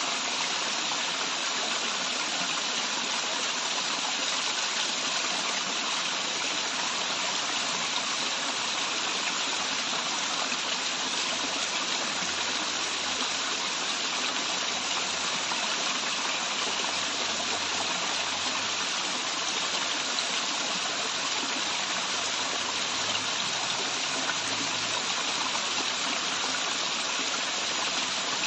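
Waterfall running water, a steady, unbroken rush.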